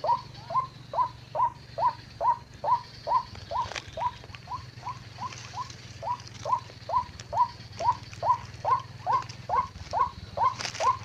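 White-breasted waterhen calls: a monotonous series of short rising notes, about two and a half a second, evenly spaced.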